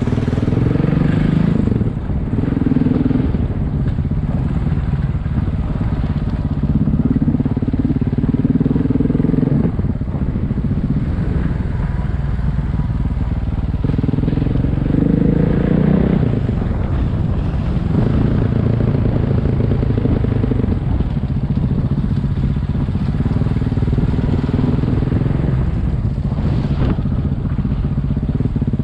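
Single-cylinder dual-sport motorcycle engine running under way, its revs rising and falling several times.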